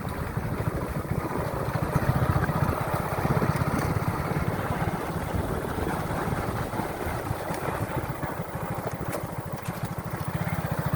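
Hero Splendor motorcycle's small single-cylinder four-stroke engine running under way, a fast even putter that gets louder about two seconds in.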